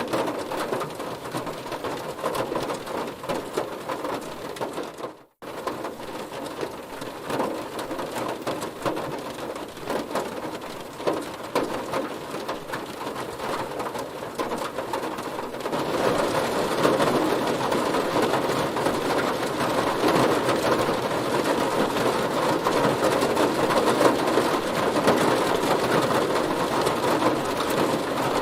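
Heavy rain drumming on a car, a dense, steady patter. It cuts out for a moment about five seconds in, then resumes, and turns louder and harsher a little past halfway through.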